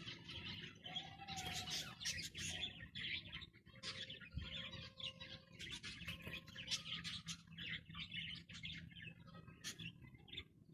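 Zebra finches chirping: a dense run of short, high calls.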